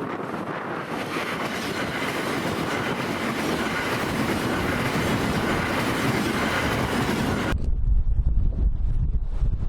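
A Tokyo Metro 13000 series electric train running past on the track, its noise building steadily. About three-quarters of the way through, the train sound cuts off abruptly and gives way to strong wind buffeting the microphone.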